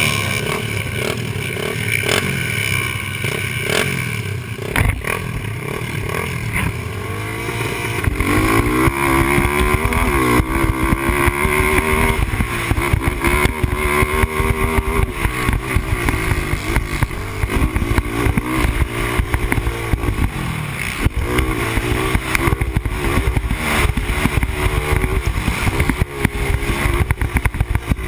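Yamaha Raptor 250 ATV's single-cylinder four-stroke engine, heard close up from a helmet camera. It runs fairly steadily at first, then from about eight seconds in revs up and down over and over as the quad accelerates and shifts.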